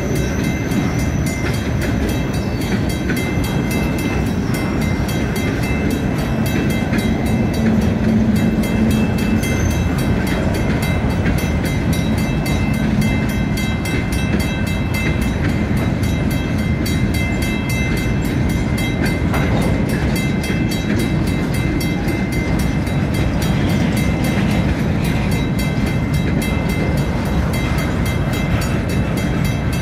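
Freight train cars rolling past on the rails: a steady, loud rolling noise with faint, steady, high-pitched wheel-and-rail tones over it.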